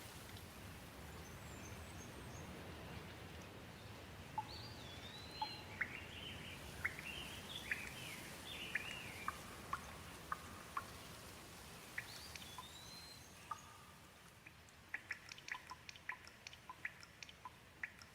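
Gentle rain falling as a steady soft hiss, with a bird calling in short chirps from about four seconds in. Near the end the hiss dies down, leaving a scatter of sharp drips.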